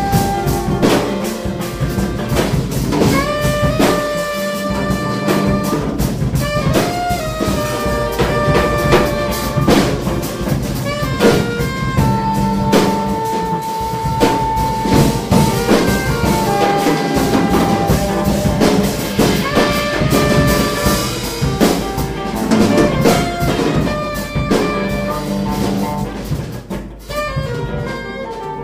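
Live jazz improvisation: a saxophone plays over busy drumming on drum kits. It holds one long note midway through.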